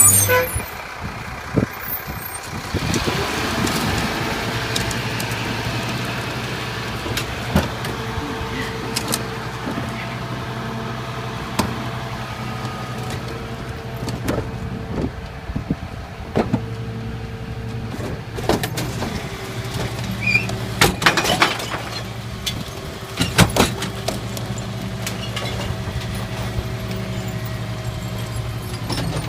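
Garbage truck's diesel engine running steadily, opening with a short air-brake hiss. Scattered knocks and bangs follow, clustered a little past the middle.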